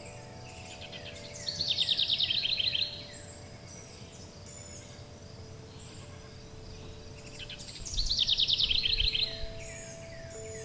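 A songbird sings a fast trill of rapidly repeated notes twice, about six seconds apart. Under it, soft sustained chime tones hold steady, a new tone sounding near the end, with faint high chirps in the background.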